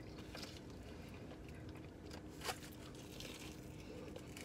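Faint, close-up chewing and crunching of fried food: extra-crispy chicken fingers and crinkle-cut fries. One sharper click comes about two and a half seconds in.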